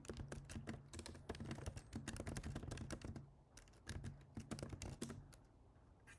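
Typing on a computer keyboard: a fast run of keystroke clicks, a short pause about three and a half seconds in, another run, then the typing stops about five seconds in.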